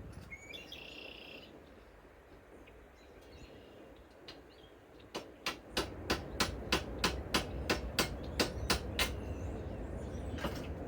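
Hammer striking metal in a quick, even run of about fourteen blows, roughly three a second, starting about halfway in, with one more blow near the end: driving out a lag screw stuck fast in an impact socket.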